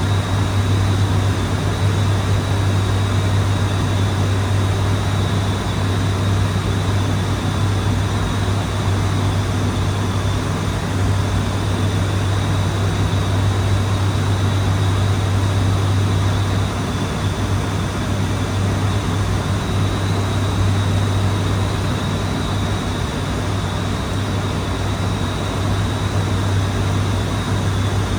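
Interior noise of an ATR 72-600 turboprop in flight: the deep, steady drone of its Pratt & Whitney PW127M engines and six-bladed propellers over a rush of airflow, with a thin high whine. The level drops slightly a little past halfway.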